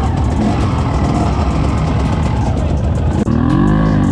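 Off-road vehicle engine running under load as it tries to get over a step on the trail. About three seconds in it revs once, its pitch rising and then falling.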